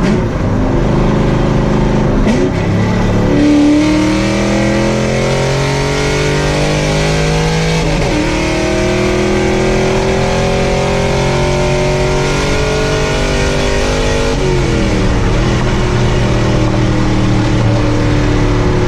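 Chevrolet V8 car engine with its mufflers removed, running loud and open at wide-open throttle: it climbs in pitch, shifts up about eight seconds in, climbs again, then drops sharply as the throttle is lifted and settles to a steadier cruise.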